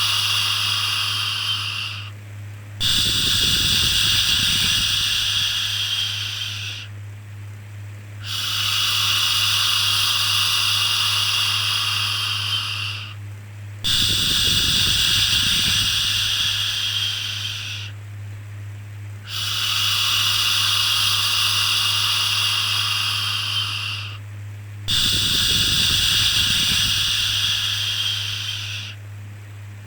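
Repeated baby-soothing 'shhh' shushing, each shush lasting about four seconds with a gap of about a second between them, about five shushes in all. A steady low hum runs underneath, and a low whoosh comes in at the start of every second shush.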